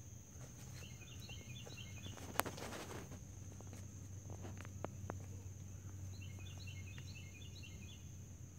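Quiet outdoor ambience: a small bird calling in a quick run of short chirps about a second in and again near the end, over a steady high-pitched insect-like buzz. One sharp click about two and a half seconds in, with a few fainter ticks after it.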